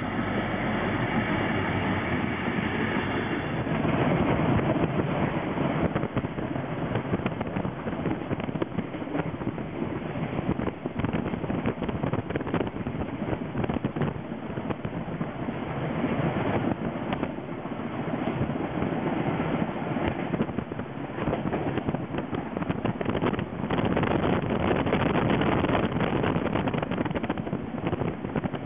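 For the first few seconds, a diesel locomotive hauling a container freight train approaches with its engine running. About four seconds in, this gives way to the steady running noise of a train in motion heard from on board, wheels on track with frequent clicks, and wind on the microphone.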